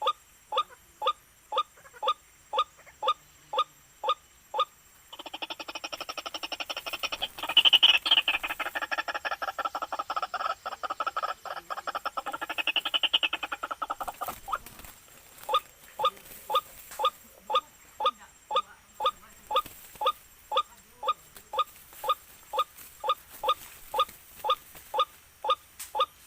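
White-breasted waterhen calling: a steady series of evenly spaced loud notes, about two and a half a second, breaking from about five seconds in into a louder, rapid chattering run for some nine seconds before going back to the spaced notes.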